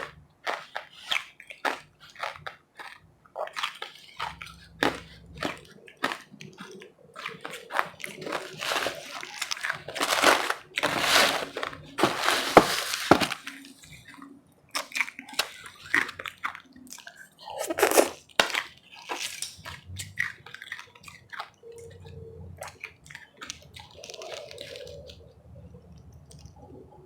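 Close-miked chewing and crunching of powdery, refrozen ice: many sharp, irregular crunches with denser, louder bursts of grinding partway through.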